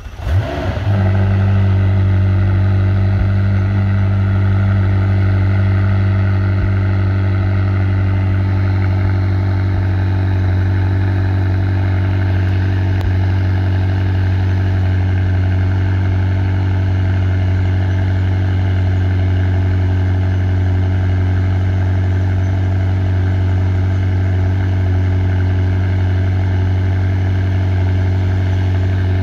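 McLaren 600LT's twin-turbo V8 starting from cold: it catches right at the start with a short flare in revs, then settles into a steady idle that holds without change.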